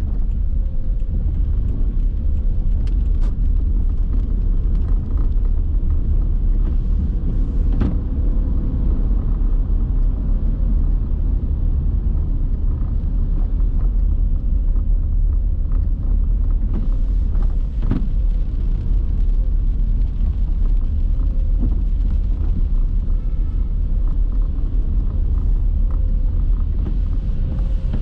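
Steady low rumble of a car driving: engine and road noise. A few faint ticks stand out now and then.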